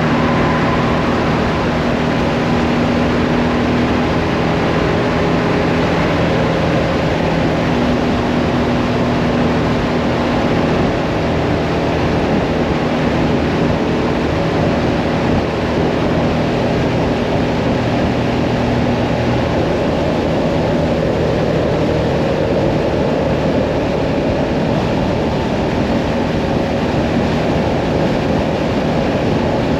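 Hyosung Mirage 650 V-twin motorcycle engine running at a steady cruising speed, with wind rushing over the microphone. The engine note shifts slightly in pitch a few times.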